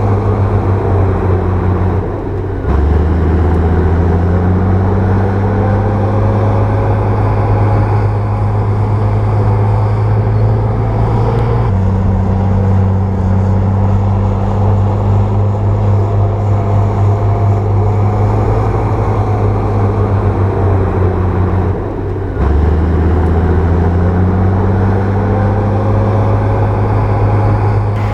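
Bulldozer diesel engine running steadily under load. Its note shifts abruptly a few times, with brief dips about two seconds in and again near the end.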